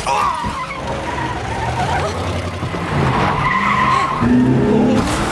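Car tyres squealing in a skid, in a loud action-film sound mix.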